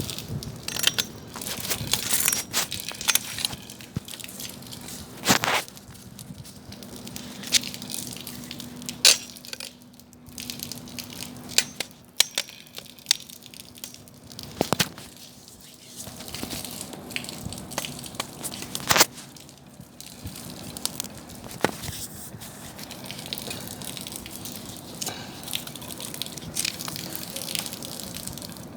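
Wood bonfire crackling, with irregular sharp pops and snaps over a steady hiss.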